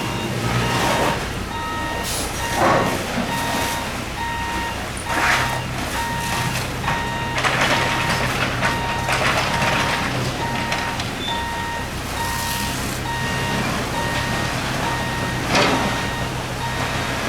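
A vehicle's reversing alarm beeping steadily, about twice a second, over the low steady hum of a running engine. Loud bursts of hissing noise come and go over it.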